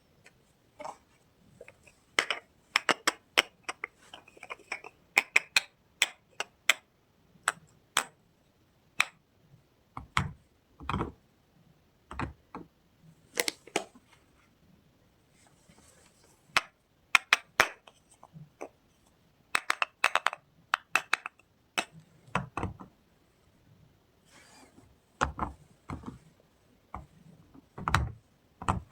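Hands unpacking soap bars: irregular sharp clicks, crackles and taps of packaging being handled, with a few dull knocks.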